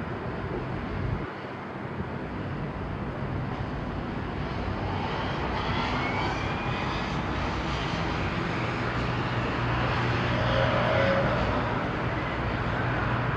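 Distant engine rumble that slowly grows louder over several seconds, with a low steady hum underneath.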